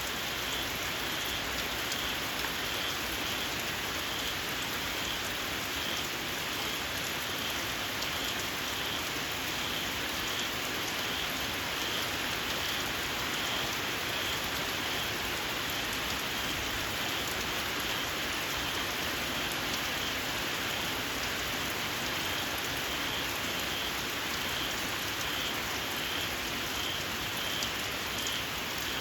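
Steady rain falling, with a small frog calling in a regular series of short, shrill chirps, roughly one and a half a second.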